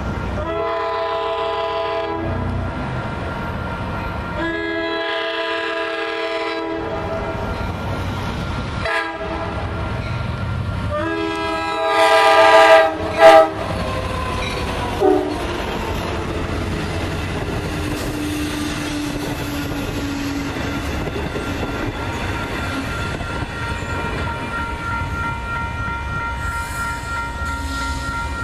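Long Island Rail Road train horn blowing the grade-crossing signal, two long blasts, one short and a final long one that is the loudest. The train of bilevel coaches then rolls past with wheel clickety-clack, with a crossing bell ringing steadily.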